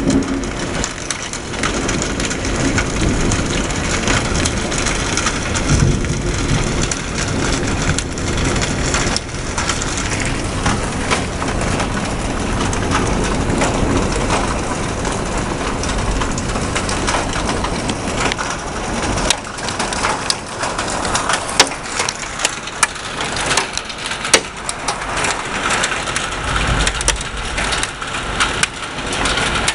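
Heavy rain pouring in a severe thunderstorm, with a dense scatter of sharp ticks from about twenty seconds in.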